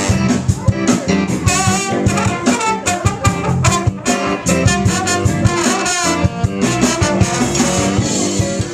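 Band music with horns such as saxophone, guitar and a drum kit playing a steady beat.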